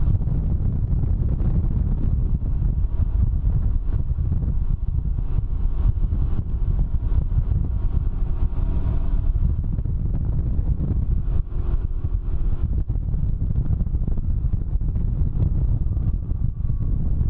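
Can-Am Ryker three-wheeler riding at road speed: steady wind buffeting on the microphone, with the engine running faintly underneath.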